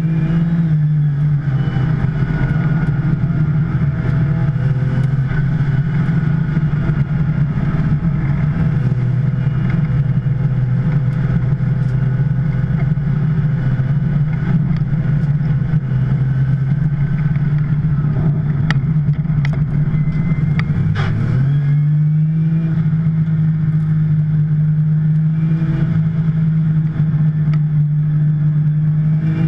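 2010 Porsche 911 Turbo's twin-turbo flat-six pulling hard at racing speed, its pitch holding fairly level for long stretches. About three quarters of the way through there are a few clicks and the pitch dips briefly, then it climbs again as the car accelerates.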